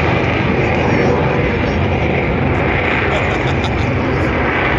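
Military jet aircraft flying past, a loud steady rush of engine noise.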